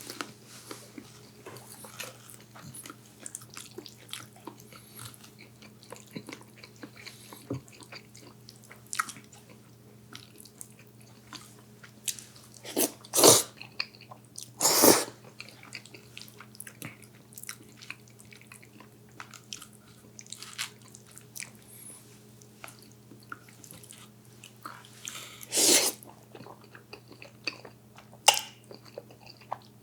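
A person eating close to the microphone: small chewing and biting sounds throughout, with three louder bites or slurps about halfway through and again near the end, over a faint steady hum.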